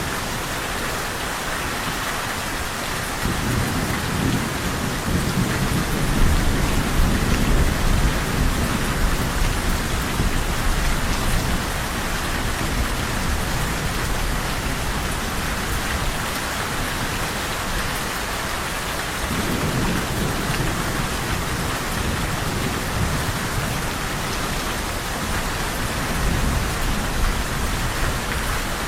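Steady rain falling, with low rolling thunder that rumbles in a few seconds in, fades, and rumbles again about twenty seconds in.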